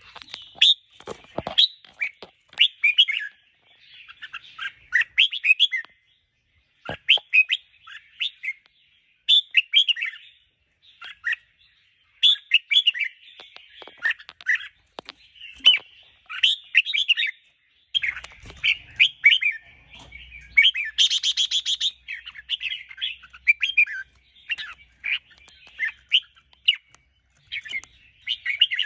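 Red-whiskered bulbul song: short, quick warbled phrases repeated every second or so, with one harsher, buzzier call about two-thirds of the way through.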